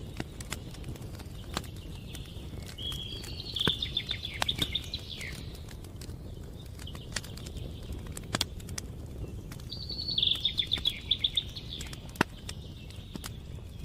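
Wood fire crackling with scattered sharp pops over a low rumble. A bird sings two short trilled phrases over it, about three seconds and ten seconds in, and these are the loudest sounds.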